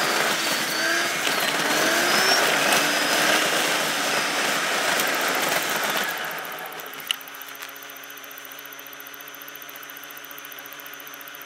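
Car engine and road noise heard from inside the cabin while driving, with repeated short rises and falls in pitch. From about six seconds in it settles to a quieter, steady idle hum as the car stands at a red light, with one sharp click about a second later.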